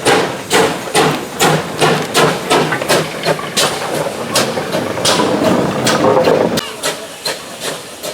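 Steam locomotive working hard, its exhaust beating sharply about twice a second over a low rumble. A little before the end the rumble drops away and the beats carry on fainter.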